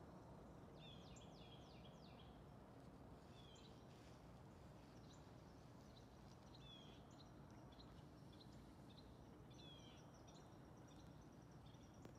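Faint outdoor ambience: a low steady hiss, with small birds chirping now and then in short runs of quick high notes.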